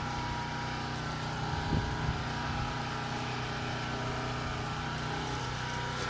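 Portable gasoline generator engine running steadily at a constant speed.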